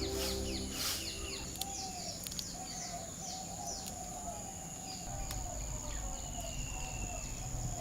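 Outdoor rural ambience: a steady high insect drone and a run of short, low, wavering bird calls about once a second, with a few faint clicks.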